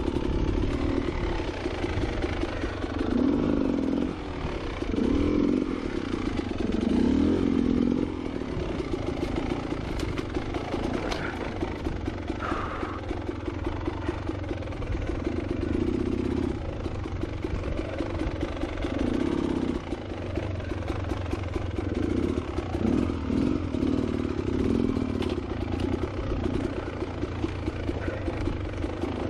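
Two-stroke engine of a Beta Xtrainer 300 dirt bike running on a rough trail, the throttle opened and closed again and again so the note rises and falls in repeated swells.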